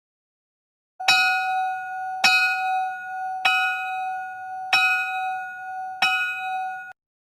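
A bell struck five times at an even pace, a little over a second apart, each strike ringing on at the same clear pitch until the next; the ringing cuts off suddenly near the end.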